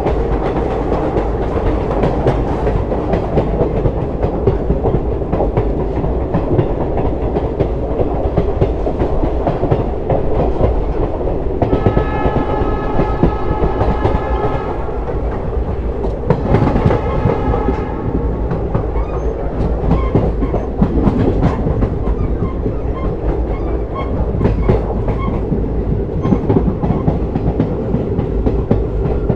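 Passenger train running, heard from aboard, with a steady rumble and wheels clicking over the rail joints. The diesel locomotive's horn sounds twice near the middle: a blast of about three seconds, then a shorter one of about a second and a half.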